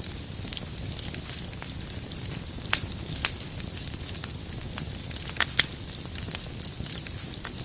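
Wood fire burning in a fireplace: a steady low rumble and hiss with irregular sharp crackles and pops, the loudest pops about a third of the way in and a pair about three quarters through.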